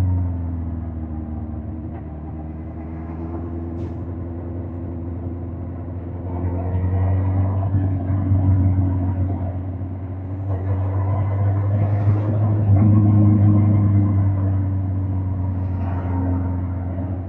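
2005 Suzuki GSX-R1000 K5's inline-four engine running under way. The engine note drops off at the start, then rises and falls twice as the throttle is opened and eased back.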